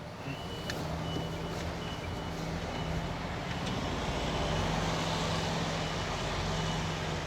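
Lorry's diesel engine running at low revs while reversing, with the reversing alarm beeping in a steady repeating pattern over it and a couple of sharp clicks.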